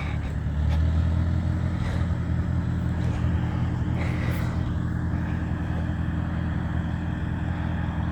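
Allis-Chalmers farm tractor engine running steadily at low speed, a little louder for a couple of seconds about a second in.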